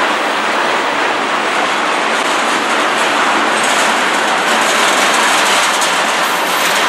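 Freight train of tank cars and covered hoppers passing close by: loud, steady noise of steel wheels rolling on the rails.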